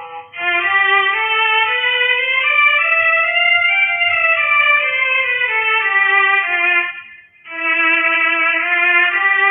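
Background music: a violin playing a slow melody of long, sliding notes that climb to a peak and then fall again, with a brief break a little after seven seconds.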